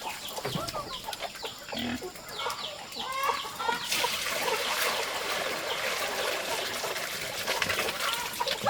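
Chickens clucking and cheeping in many short calls. From about four seconds in, a steady hiss with scattered clicks rises under them.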